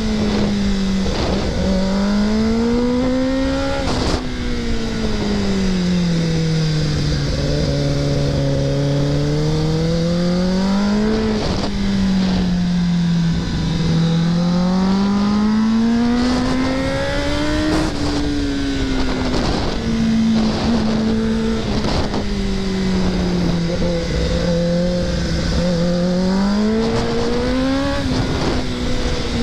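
Kawasaki ZX-10R sportbike's inline-four engine under way, revs climbing and falling through the bends. The pitch drops suddenly at each upshift, about four times, over steady wind rush.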